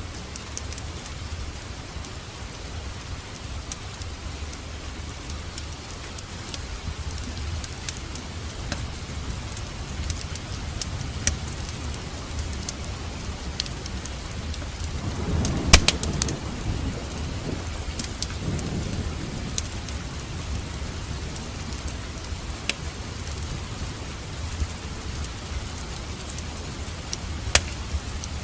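Steady rain with scattered sharp clicks, and a roll of thunder about halfway through that opens with a sharp crack and rumbles for a few seconds.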